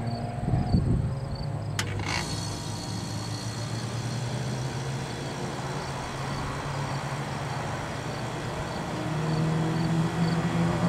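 Ferrari F355's 3.5-litre V8 running hard on a race circuit, heard from a distance: the note climbs in the first second, swells into a loud burst about a second in, then settles into a steady drone that grows louder near the end. Two sharp clicks about two seconds in.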